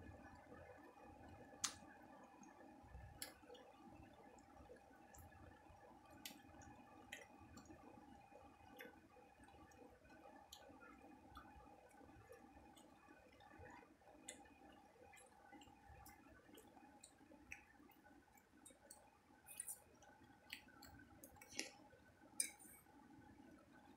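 Quiet wet chewing and mouth clicks of a person eating dal and rice, scattered short sharp smacks over a steady low background hum, with a few louder clicks near the start and toward the end.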